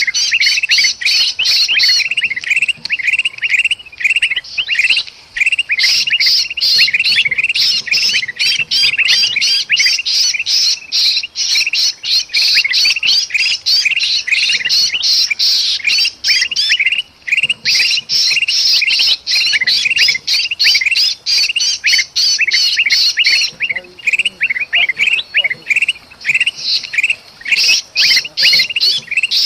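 Bulbuls (kutilang) giving a dense, non-stop stream of rapid, agitated chirps and squawks, the noisy calls of a flock stirred up by a trapped bird's distress calls, used as a bird lure. Two brief lulls break the calling, about 17 and 23 seconds in.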